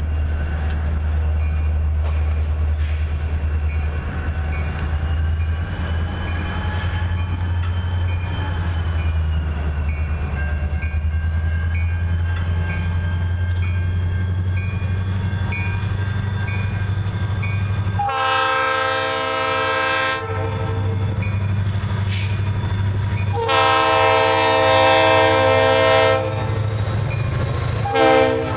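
Diesel freight locomotive running past with a steady low engine rumble, then sounding its air horn in two long blasts and a short one, the start of a grade-crossing signal.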